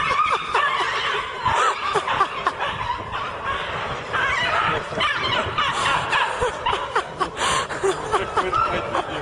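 People snickering and laughing in short, breathy bursts.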